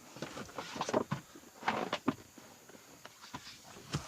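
Irregular footsteps, a few uneven steps about a second apart.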